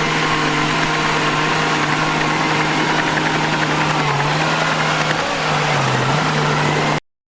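Heavy diesel engine of earthmoving machinery running steadily, its pitch dipping briefly twice under load changes. The sound cuts off suddenly near the end.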